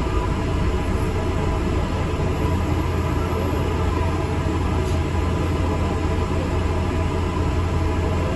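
ADL Enviro 400 MMC double-decker bus on the move, heard from inside: a steady low engine hum with road and body rumble.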